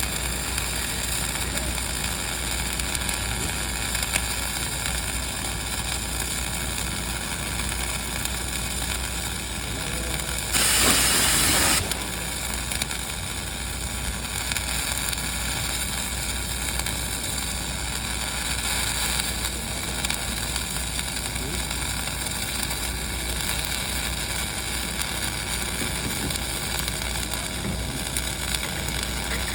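Dual-shield flux-cored arc welding on a vertical joint: the arc gives a steady crackling sizzle, with a louder hiss lasting about a second near the middle.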